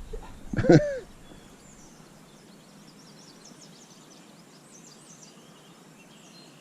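Faint, scattered chirps of small songbirds over a low steady outdoor hiss, after a brief spoken word about a second in.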